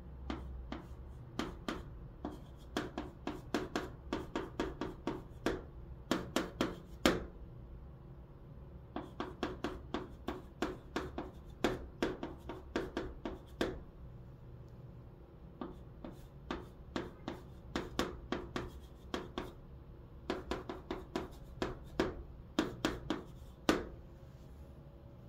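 Chalk writing on a blackboard: quick taps and short scratching strokes in rapid clusters, each burst broken by pauses of a second or two as Chinese characters (Hanja) are written stroke by stroke.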